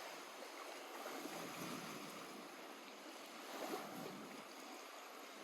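Small lake waves lapping gently at the shore, a soft steady wash with occasional light splashes.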